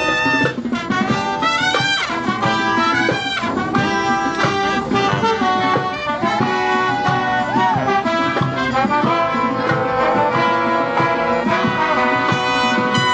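Live brass band music: a college band's horns and saxophones playing together, with some notes slid and bent between pitches.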